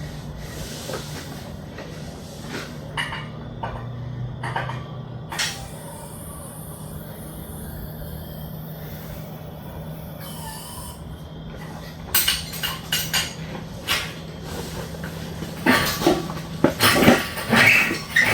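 Metal clanking and knocking during an engine pull, most likely the hoist and chains shifting as the engine hangs and is lowered. The knocks are scattered at first and come thick and loud in the last several seconds, over a steady low hum.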